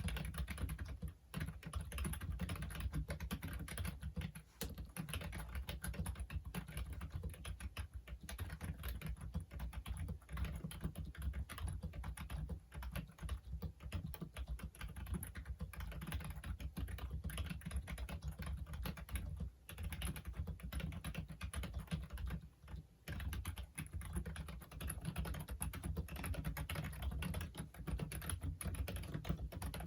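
Continuous typing on a Logitech Wave Keys wireless ergonomic keyboard: a rapid patter of membrane key presses, with a few brief pauses.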